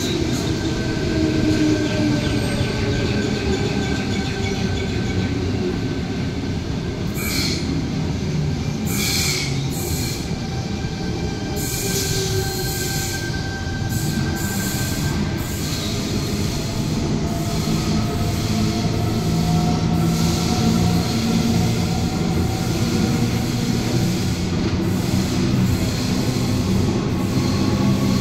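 Sydney electric suburban train running through the station: a steady rumble with the whine of its traction motors gliding slowly in pitch, and a run of brief high squeals from the wheels between about seven and sixteen seconds in.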